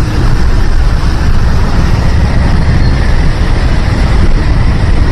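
Loud, steady rushing noise, heaviest in the low end, with no speech over it.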